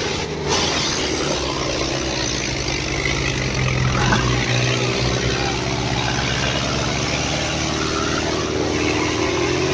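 Diesel tractor engines running steadily under load, a low hum with a noisy rattle over it.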